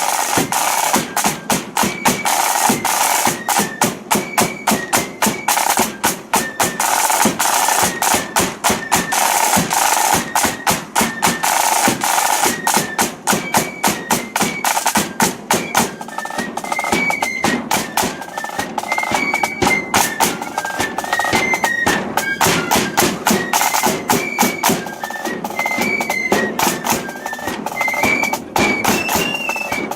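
Marching flute band of the 'blood and thunder' style playing a march: dense, rapid snare drumming and bass drum beats, with a flute melody over them that stands out more clearly in the second half.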